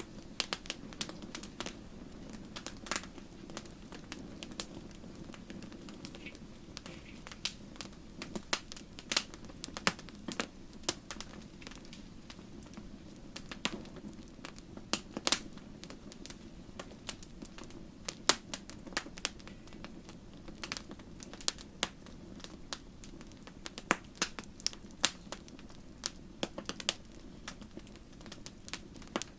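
Wood campfire burning and crackling: irregular sharp pops and snaps, several a second with some louder ones, over a steady low rush of the flames.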